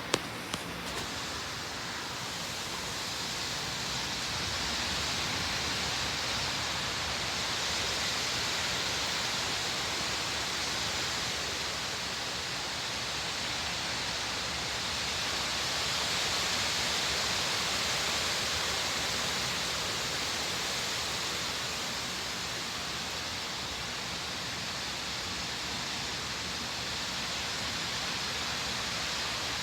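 Severe thunderstorm wind and rain: a steady rushing hiss that swells and eases every several seconds. A brief sharp knock sounds right at the start.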